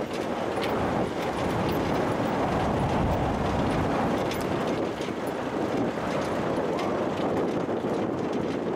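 Safari vehicle driving along a dirt road: steady engine and road noise with wind buffeting the microphone and small scattered rattling clicks.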